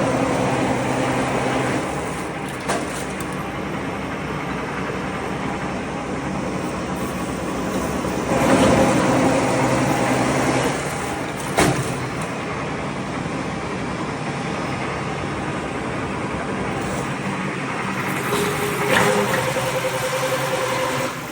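BS-1200P radiator separator machine running with a steady mechanical hum, stripping scrap copper-aluminium radiators. It grows louder and grinds for about two seconds a little before the middle and again near the end, with one sharp knock about halfway through.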